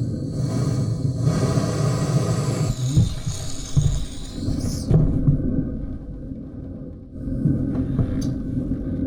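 Loud, uneven low rumbling noise. A high hiss rises over it and cuts off about five seconds in, with a few knocks along the way.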